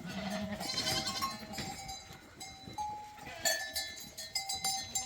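Goats bleating, one wavering call in the first second and a half, with the clank of bells worn by the herd, the strikes coming more often after about three and a half seconds.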